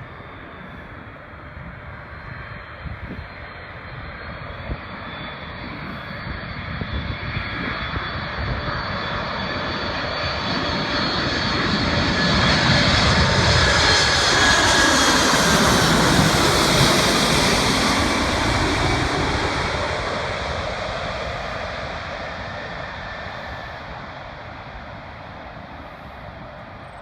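Boeing 747-400's four jet engines on landing approach, passing by. The engine noise swells to a peak a little past halfway, with whining tones that drop in pitch as it goes past, then fades away.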